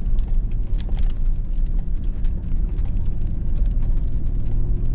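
Hummer H2's V8 engine running with a steady low hum inside the cab as the truck drives the trail, with scattered sharp ticks throughout.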